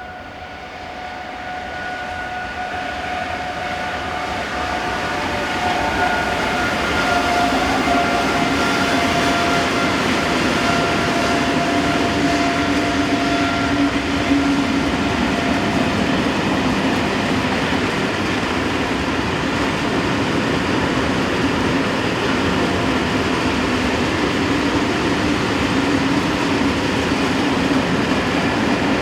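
RENFE Class 256 electric locomotive approaching and passing with its train, growing louder over the first few seconds and then staying loud. A steady whine sounds through the first half and fades out, after which a lower steady hum runs on with the rumble of the rolling train.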